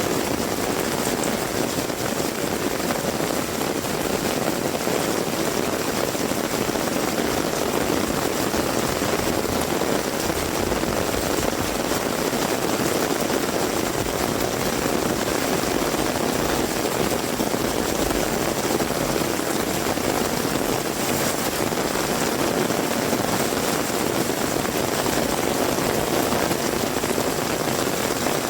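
Heavy rain falling steadily, a dense even hiss of downpour with no breaks or single loud events.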